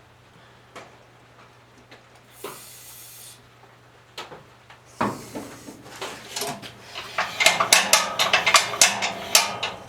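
A short aerosol hiss, then, from about halfway in, a dense metallic rattling and clattering that grows louder. This is the MTD chipper shredder's loose flail blades flopping around in the housing as the machine is turned over.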